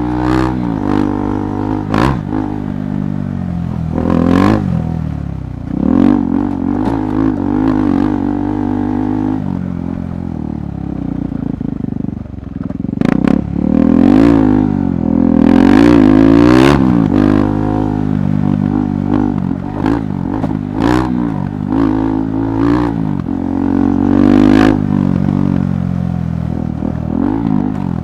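KTM 390 Adventure Rally's single-cylinder engine under riding, its pitch rising and falling again and again as the throttle is opened and closed. Sharp knocks and clatter come through repeatedly.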